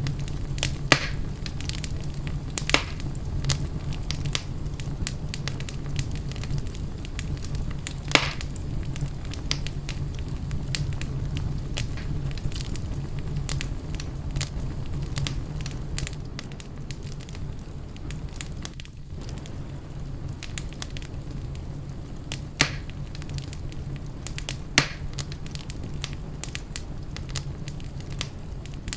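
Fireplace fire crackling: a steady low rumble of the flames under irregular sharp pops and snaps, a handful of them louder than the rest.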